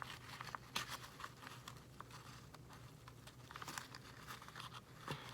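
Quiet rustling of paper with scattered small clicks and taps as hands handle the paper pages and a tag.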